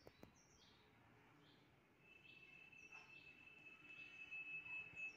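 Near silence with faint, short, high bird chirps repeated every second or so. From about two seconds in, a faint steady high tone joins them.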